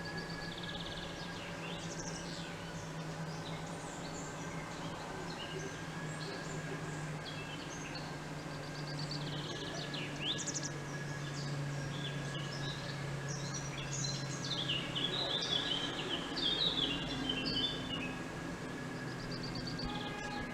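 Small birds chirping and twittering in short calls and trills, thickest in the second half, over a steady low background hum that drifts slightly lower in pitch.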